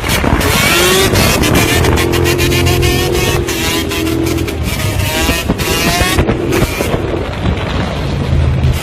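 Vehicle engine running and revving loudly, its pitch climbing again and again.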